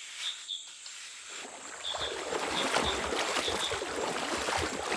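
Water sloshing and splashing, starting about a second and a half in and growing louder, with short insect chirps repeating throughout.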